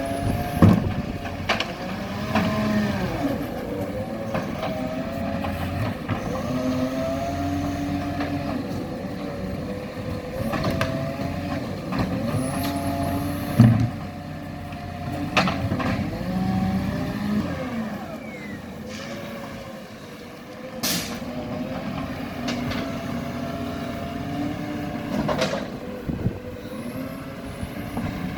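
Garbage truck engine running, its revs rising and falling again and again, with several sharp knocks and a short air hiss about two-thirds of the way through.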